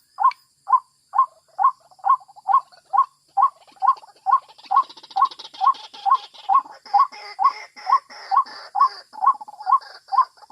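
White-breasted waterhen calls: a steady run of short, identical hooked notes at about two a second. From about four seconds a second, busier layer of calls joins in over the top.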